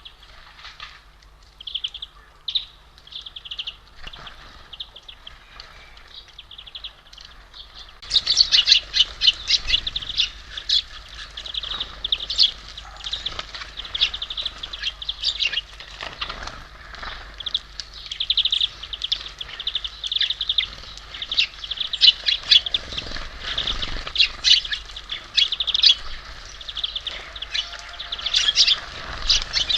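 Small songbirds chirping at a feeder: a few scattered chirps at first, then about eight seconds in a much busier, louder stretch of overlapping high chirps.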